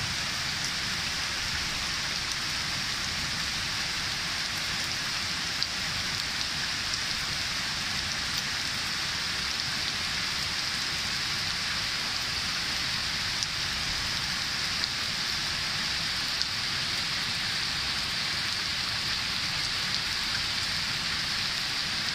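Heavy rain falling steadily into a shallow puddle: an even, unbroken hiss with a few sharper drop splashes here and there.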